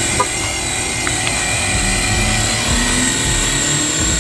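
High-pitched whine of a small motor vehicle running steadily, with a lower tone that climbs slightly near the end. The sound starts and stops abruptly.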